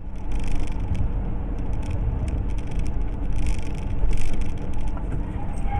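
A car driving, recorded by a dashcam: steady low engine and road rumble, with irregular crackling clicks.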